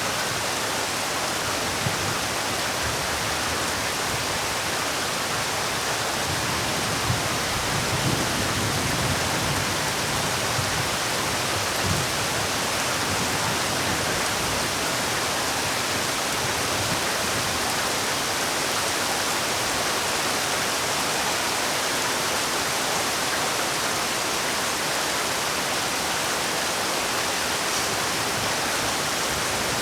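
Heavy rain falling in a steady, even hiss. A few soft low thumps come about a third of the way in.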